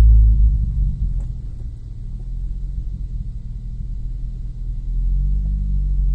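2002 Nissan Maxima's 3.5-litre VQ35DE V6 running, a low engine drone that eases off about a second in and builds again near the end.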